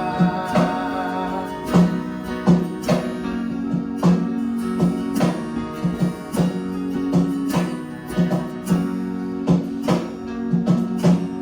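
Worship band playing an instrumental interlude of a song, led by strummed acoustic guitar with steady rhythmic strokes over sustained chords. A sung final word, 'God', is held just after the start.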